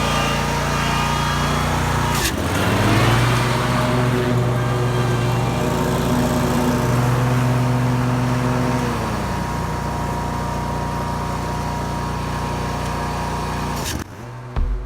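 An engine running steadily; its pitch dips and climbs again about two seconds in, then eases down a little partway through, and the sound cuts off abruptly near the end.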